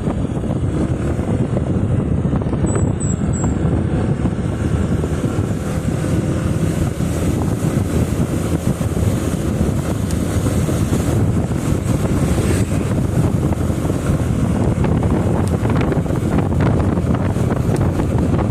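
Motorcycle riding on the road with wind rushing over the microphone, a steady loud rush of wind and road noise.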